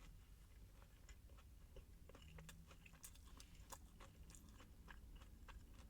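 Close-miked chewing of a mouthful of crispy fried chicken sandwich with bacon: faint, scattered soft crunches and wet mouth clicks.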